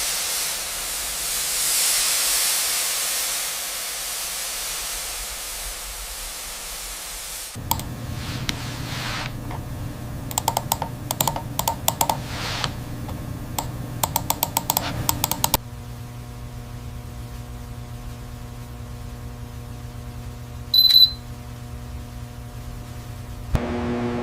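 A loud, steady hiss for about seven seconds, then a long run of sharp clicks over a low hum, then a steady low hum with a short high beep near the end.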